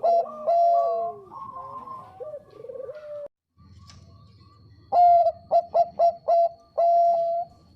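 Zebra dove (Bangkok perkutut) cooing: a run of quick cooing notes, a pause of about a second and a half, then another phrase of rapid clipped notes that ends in one longer held coo.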